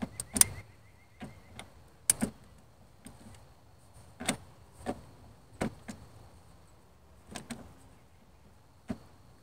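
Scattered light clicks and knocks, about eight of them at uneven intervals a second or so apart.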